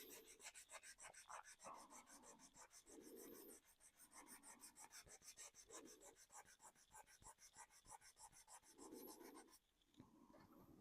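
Faint, quick strokes of 400-grit sandpaper rubbing over the painted plastic of a 3D-printed model car body, sanding through the paint layers to weather it.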